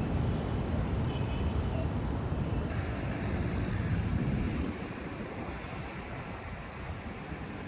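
Steady low rumbling outdoor noise with no clear single source. It changes abruptly about two and a half seconds in, then gets quieter about halfway through.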